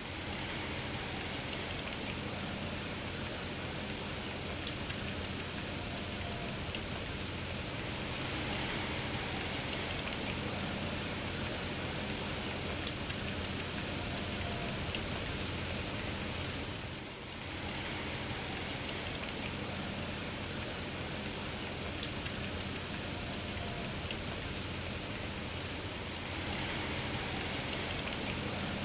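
Steady rain falling, an even hiss of drops, broken by three sharp single taps spaced about eight seconds apart. The rain briefly dips in level once, a little past the middle.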